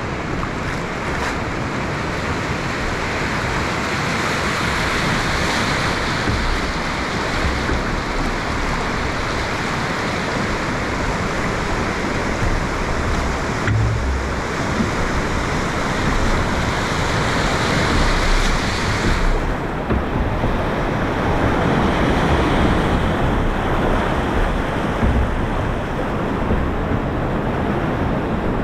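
Whitewater of a big river rapid rushing steadily around a drift boat running it at high flow, with some wind buffeting the microphone. The high hiss of the water drops off suddenly about two-thirds of the way through.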